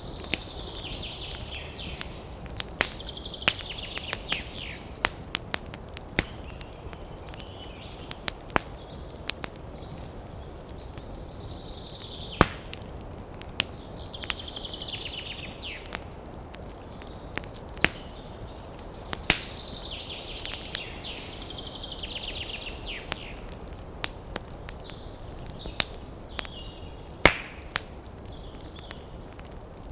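Wood campfire crackling with frequent sharp, irregular pops over a steady low rush of wind. A bird calls every few seconds in short, rapid trilled phrases, some sliding down in pitch.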